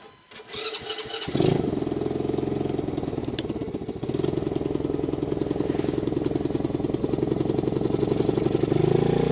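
Small 90cc gas ATV engine starting on choke: it catches about a second in, then runs steadily at a fast idle, picking up slightly near the end.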